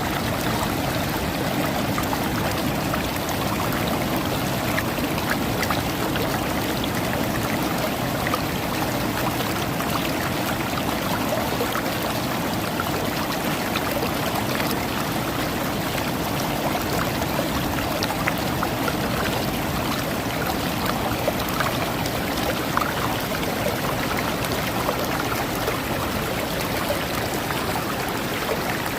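Shallow water washing steadily over pebbles, with many small clicks and ticks from the stones.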